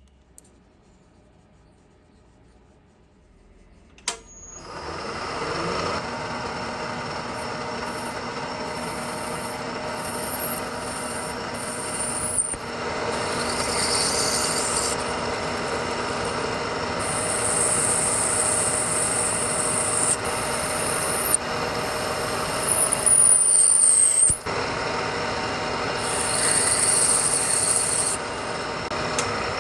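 A metal-cutting machine tool is switched on with a click about four seconds in, spins up over a second or so and runs steadily, with a scraping cutting noise that comes and goes on top of the motor and gear drive.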